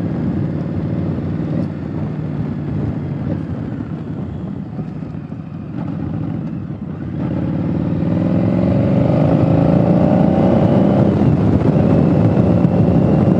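Indian Scout Bobber Twenty's 1133 cc V-twin engine running under way, heard through a helmet-mounted camera. About seven seconds in it gets louder and accelerates, its pitch rising, with a short break near eleven seconds as it shifts up, then rising again.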